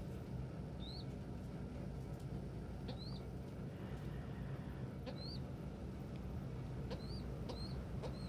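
A young pigeon peeping: about six short, high chirps, each rising and dropping, one every second or two and some in quick pairs. Under them runs a steady low blowing noise.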